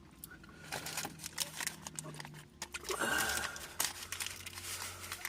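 Eating from a Blizzard ice cream cup inside a car: scattered small clicks and rustles of cup handling and eating, with a louder rustling burst about three seconds in.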